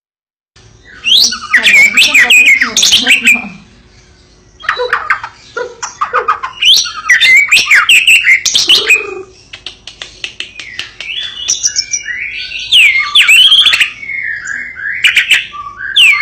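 White-rumped shama (murai batu, Medan type) singing loudly in long bouts of varied whistles, rapid clicks and harsh notes, with two short pauses, about four and ten seconds in.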